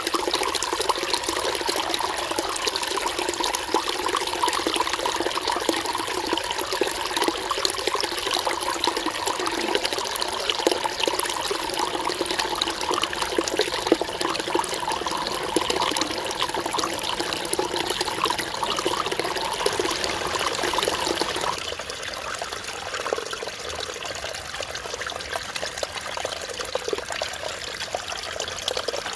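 Mountain stream running over rocks: a steady, continuous rush and trickle of water. It turns a little quieter and thinner about two-thirds of the way through.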